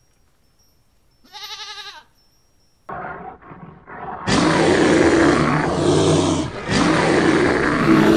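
A single short, wavering bleat about a second in. From about three seconds in come a few rough grunts, and then a loud, deep, rasping roar from a brown bear that keeps going with brief breaks.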